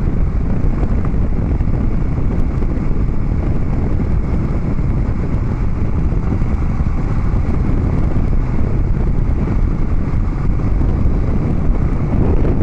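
Harley-Davidson Dyna Street Bob's V-twin running steadily through Vance & Hines Big Radius 2-into-2 exhaust pipes while riding, mixed with wind noise on the microphone.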